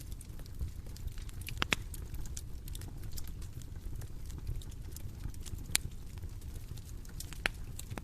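Bonfire crackling over a steady low rumble of the flames, with many faint ticks and three sharp louder pops of burning wood.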